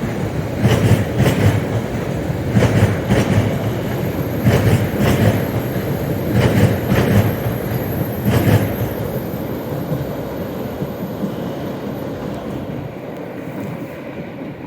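A train rolling slowly past, its wheels clacking over rail joints in pairs about every two seconds over a steady rumble. The clacks stop about nine seconds in and the rumble fades away.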